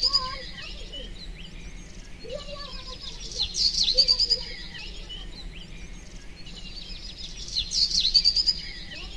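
Birds chirping and twittering in bursts that repeat almost identically about every four seconds, like a looped background track.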